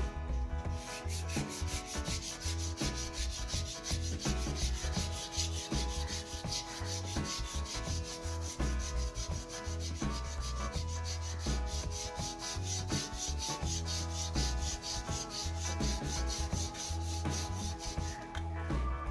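Sandpaper rubbing on a new wooden snooker cue shaft in quick, even strokes.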